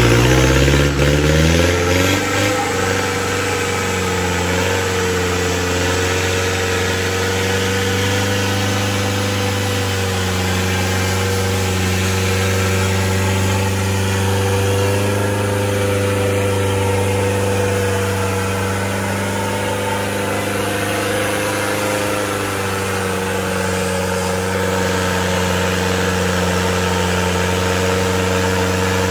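Engine of a modified off-road 4x4 stuck in deep mud. Its revs fall away over the first couple of seconds, then it runs steadily at constant revs.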